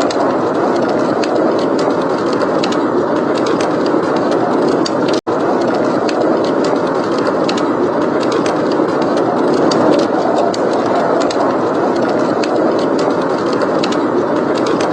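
Blizzard wind blowing steadily, with a wood fire crackling in short, irregular pops over it. The sound cuts out for an instant about five seconds in.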